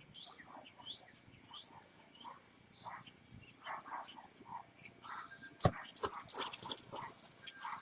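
A puppy whimpering and yipping in short, high cries, louder over the last couple of seconds, with a sharp click about five and a half seconds in.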